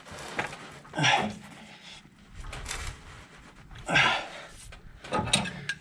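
A man's strained grunts of effort, two short loud ones about a second in and about four seconds in, as he forces a wrench with his foot to tighten a steering stabilizer bolt, with faint knocks of tools and metal between them.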